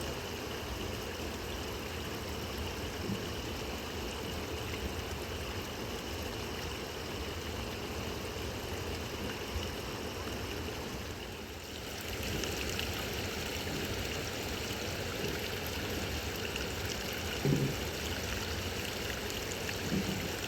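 Khersan River rushing steadily, an even wash of flowing water, its tone changing slightly just past halfway. A short knock sounds near the end.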